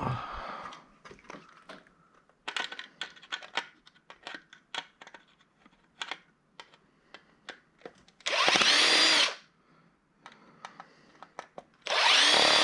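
Handheld power drill running in two short bursts of about a second each, spinning up and winding down, near the end. Before them, a run of small clicks and rattles of parts being handled.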